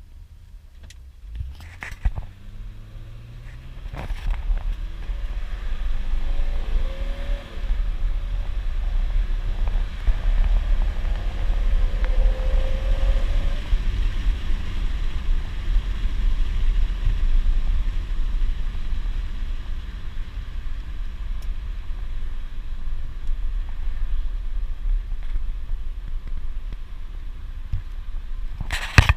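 A 1978 Mercedes 280CE's M110 2.8-litre straight-six accelerating hard through a 3-speed automatic. The engine note climbs, drops at an upshift about seven seconds in, and climbs again. From about fourteen seconds it settles into a steady, loud, low rumble of engine, road and wind noise at speed.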